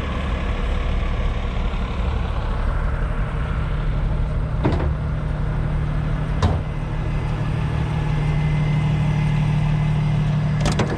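Heavy truck's diesel engine running steadily, growing a little louder in the second half, with two sharp metallic knocks a couple of seconds apart and a quick double click near the end.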